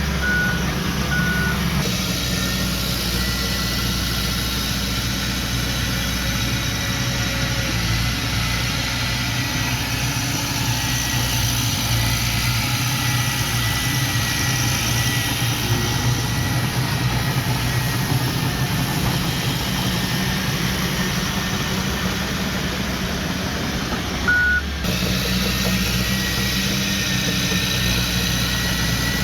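Heavy earthmoving machinery's engines running steadily under load. A reversing alarm beeps twice in the first second or two and once more near the end.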